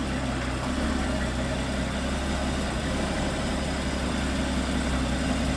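Porsche Cayman S flat-six engine idling steadily, with a low, even hum.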